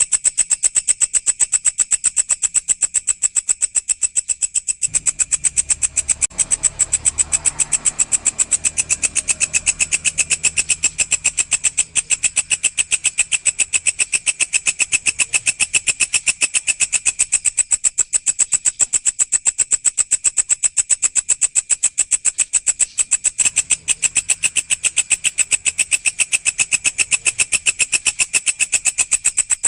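Walang (singing grasshopper) stridulating: a continuous, rapid, even train of high, shrill pulses.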